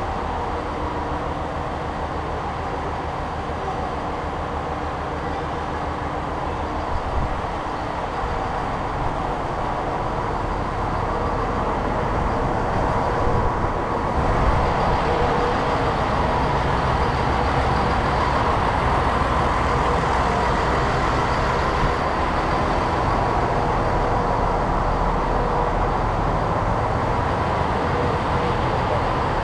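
Train running noise, a steady mechanical rumble that grows somewhat louder about a third of the way in.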